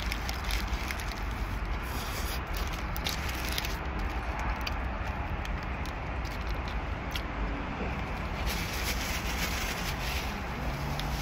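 Close-up chewing of a bite of smash burger, with the paper wrapper and a napkin crinkling and rustling, over a steady low rumble inside a car.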